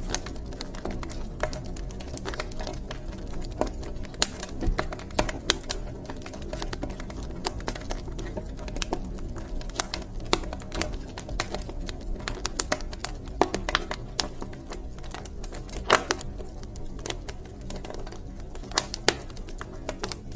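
Wood fire crackling in a fireplace: a steady low rumble with constant irregular sharp pops and snaps, a few of them louder.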